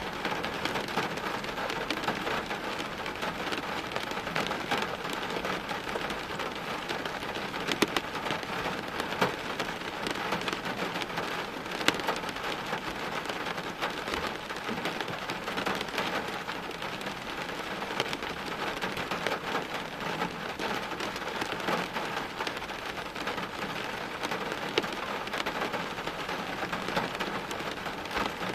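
Steady heavy rain falling on hard surfaces, a dense even hiss with many sharp individual drop ticks, a few of them louder.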